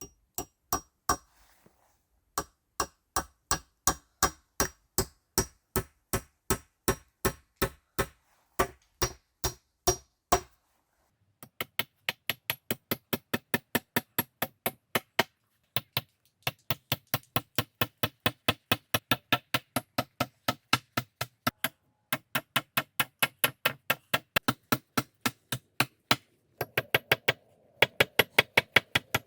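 Hammer strikes in quick, even runs of about two to three blows a second, each with a slight ringing, broken by short pauses.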